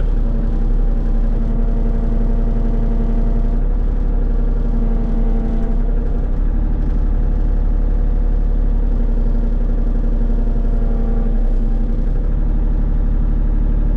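Excavator's diesel engine running steadily with the hydraulics engaged, its steady tone dipping slightly a couple of times under load.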